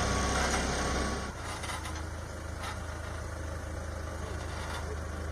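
Engine of a heavy vehicle such as a forklift or truck running steadily. About a second in, the sound drops in level and changes.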